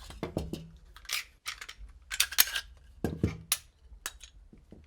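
Metal parts of an AK-47 rifle clicking and clanking as it is handled and taken apart: a quick string of sharp clicks and knocks, with a few louder clacks around the middle.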